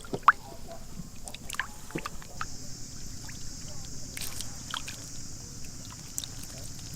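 Shallow water sloshing and splashing as hands and feet work through a flooded field, with scattered small drips and clicks and one sharp splash just after the start.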